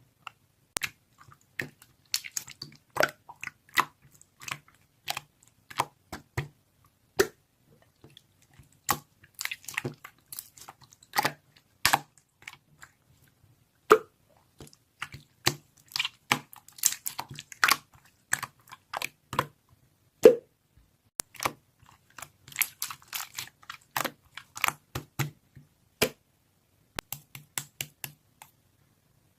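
Irregular sharp clicks and crunches, sometimes single and sometimes several in quick succession, with short gaps between.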